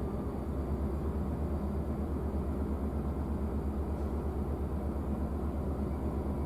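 Large engine idling: a steady low rumble with an even, rapid throb.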